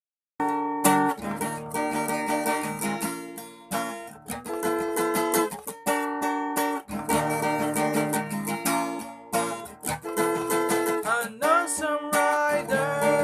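Music: a song intro of rhythmically strummed guitar chords, with a singing voice coming in near the end.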